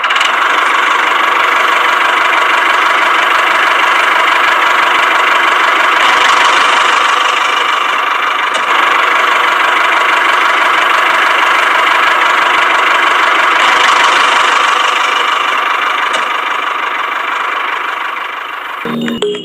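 Small motor of a DIY mini tractor model running steadily at a constant speed, starting abruptly.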